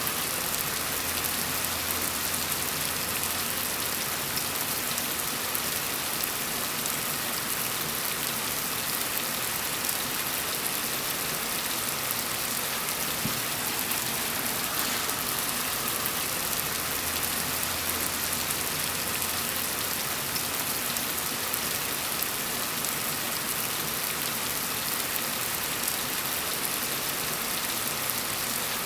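Steady gentle rain falling, an even hiss without pauses.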